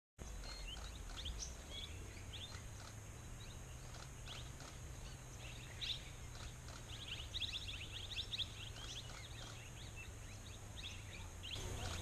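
Small birds chirping and calling, many short sharp high notes that come thickest around the middle, over a faint steady high hiss and a low rumble.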